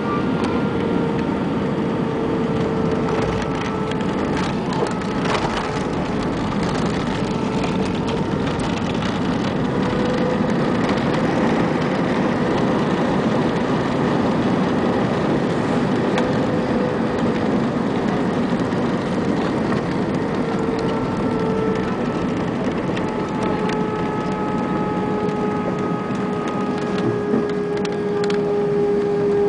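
Jet airliner engines and airflow heard inside the passenger cabin: a steady loud rush with several engine whine tones that drift slowly in pitch, and a few light rattles early on.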